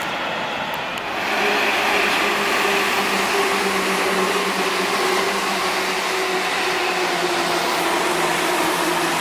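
Electric commuter train passing close by: the steady rushing and rumble of wheels on rail with a droning motor tone, growing louder about a second and a half in, the tone sinking slightly in pitch later on.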